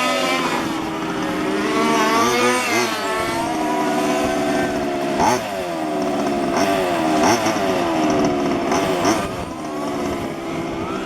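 Small two-stroke petrol engines of 1:5-scale RC race cars running, their high-pitched buzz rising and falling over and over as the cars accelerate and slow on the track.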